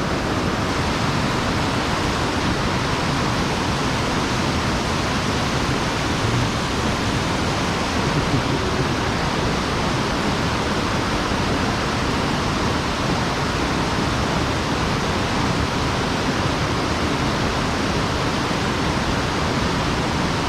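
Steady, even rush of mountain-stream water pouring over an erosion-control (sabo) dam, with no breaks or changes.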